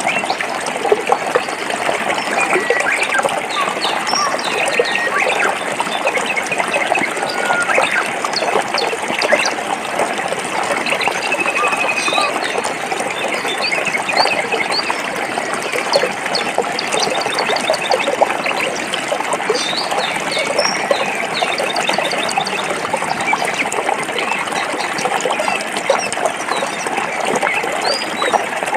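Forest stream running over rocks: a steady rushing and trickling, with small birds chirping on and off above it.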